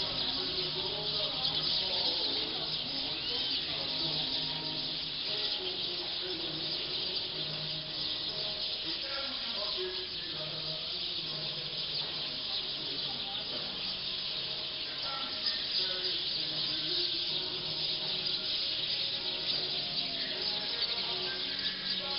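A large roosting flock of black birds calling all at once: a dense, continuous chatter of many overlapping voices.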